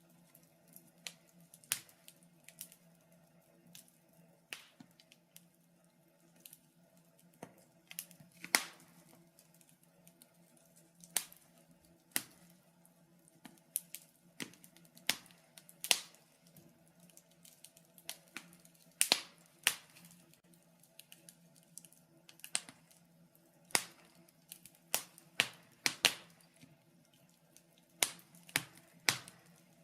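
Wood fire in a fireplace crackling, with irregular sharp pops and snaps, a few louder ones standing out, over a faint steady low hum.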